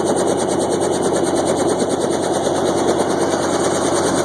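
Helicopter engine and rotor running steadily and loud, with a fast, even flutter.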